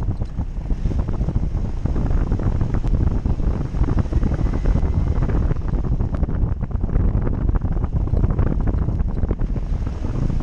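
Off-road vehicle driving over rough ground: a low engine and drivetrain rumble with frequent knocks and rattles, and heavy wind buffeting on the microphone.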